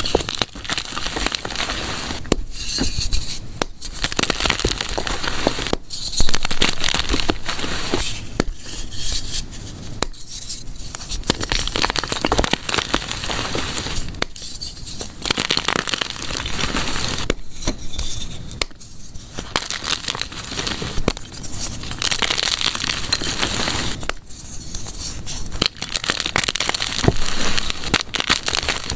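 Soft gym chalk being crushed and crumbled, a dense crackling crunch with short pauses every few seconds.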